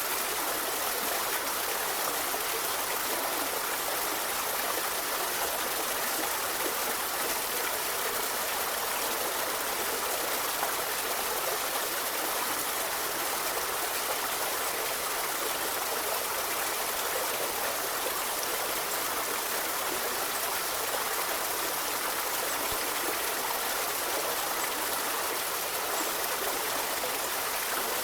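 A forest river running: a steady, even rush of flowing water.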